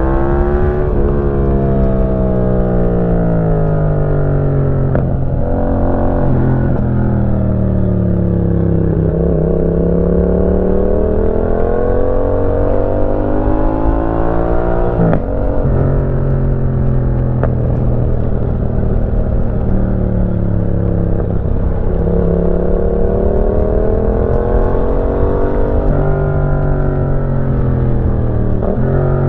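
Yamaha MT-07's parallel-twin engine breathing through a Roadsitalia aftermarket exhaust while riding. The engine note repeatedly rises under acceleration and falls away off the throttle, with a couple of sudden pitch drops at gear changes.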